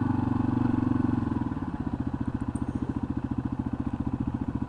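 Yamaha XT250's single-cylinder four-stroke engine running at low revs with an even pulsing beat, easing off after about a second and a half and then holding steady.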